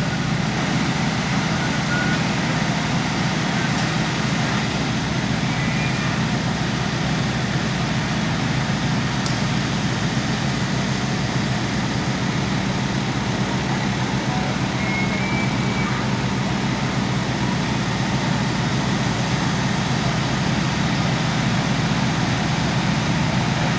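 A large vehicle engine running steadily with a constant hum, under a steady hiss, with a few faint short high beeps.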